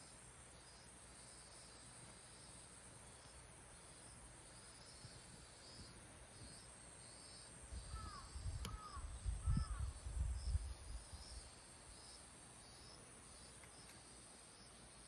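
Insects chirping in a steady, evenly pulsing chorus. About eight seconds in, a bird gives three short calls, and for a few seconds a low rumble, like wind buffeting the microphone, is the loudest sound.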